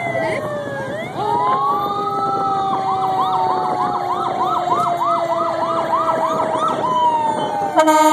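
Several police vehicle sirens sounding at once: slow falling wails, with one siren switching to a fast yelp of about three cycles a second. A short, loud horn blast comes near the end.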